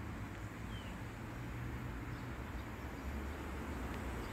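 Low rumble of a train approaching from a distance, slowly growing louder, with a few faint bird chirps.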